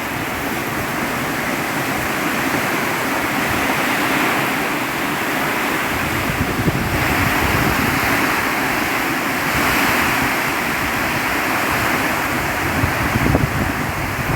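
Heavy rain pouring down in strong wind: a loud, steady rushing noise that swells and eases a little.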